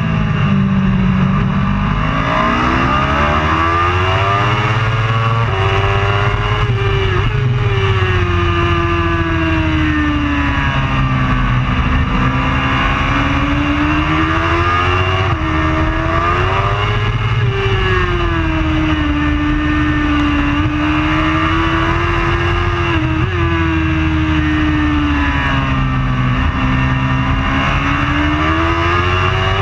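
Racing superbike engine running hard without a break, its pitch rising and falling every few seconds as the revs climb and drop, over a steady low rumble.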